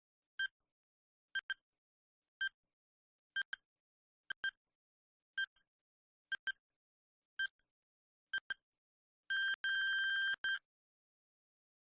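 Quiz countdown timer sound effect: a short, high electronic tick about once a second, some of them doubled, ending in about a second of rapid ringing like an alarm bell when time is up.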